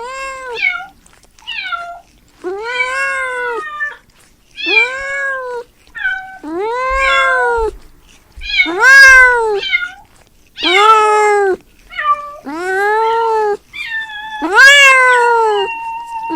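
A cat meowing over and over, about ten meows with short gaps between them, each call rising and then falling in pitch; a few are short chirps and the last ones are longer and drawn out.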